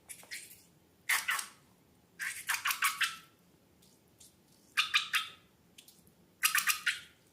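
Slime squelching and crackling in four short bursts of rapid wet pops, the longest near the middle and near the end.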